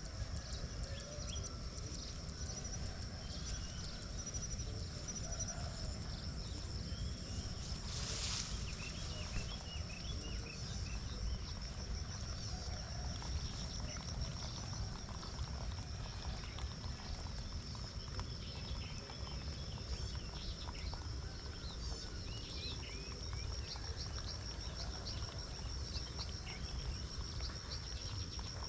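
Birds chirping, many short calls throughout, over a steady high-pitched drone and a constant low rumble. About eight seconds in, a brief louder rushing burst cuts across.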